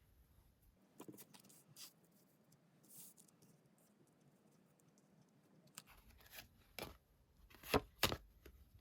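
Tarot cards being handled: faint rustling and light taps, with two sharper card snaps near the end.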